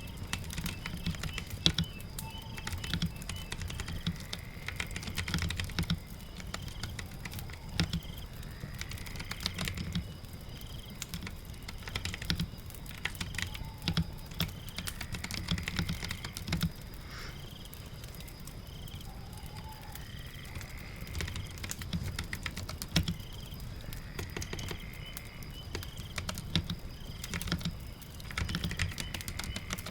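Typing on a computer keyboard in short runs of clicks with brief pauses, over a steady background of rain and a crackling fireplace.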